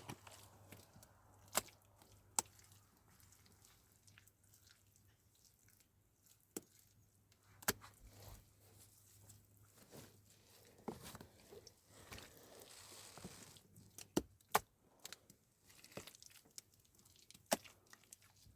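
Scattered sharp knocks and snaps at irregular intervals, a dozen or so, with a faint hiss for a couple of seconds past the middle.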